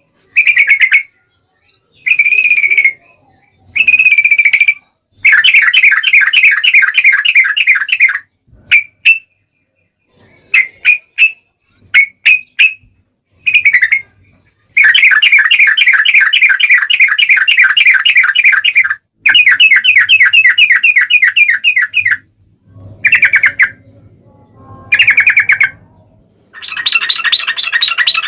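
Yellow-vented bulbul (trucukan) calls: loud phrases of rapid bubbly chattering notes, each a second to several seconds long, separated by short pauses, with a few short single notes in the middle stretch.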